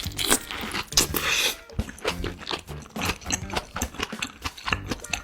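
Close-miked eating sounds: wet chewing and lip-smacking in quick, irregular strokes as a mouthful of stir-fried pork and rice is eaten.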